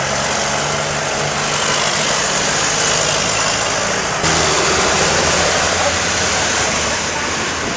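Tractor engines running, a steady mechanical drone that gets suddenly louder, with a deeper engine note, about four seconds in.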